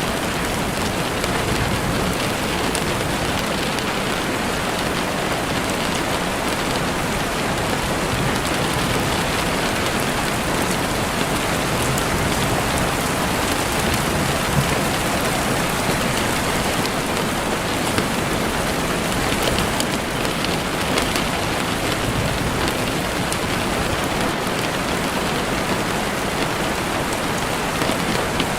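Heavy rain falling and pattering steadily on a window, an even hiss with scattered sharp drop ticks.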